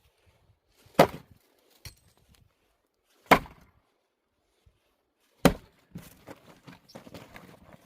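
Axe splitting firewood: three sharp chopping cracks about two seconds apart, the loudest sounds here. Lighter knocking and rustling of wood follows near the end.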